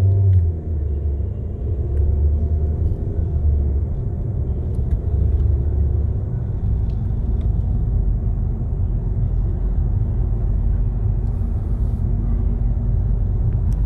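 Low, steady engine and road rumble inside the cabin of a 2013 Volkswagen Jetta as it drives.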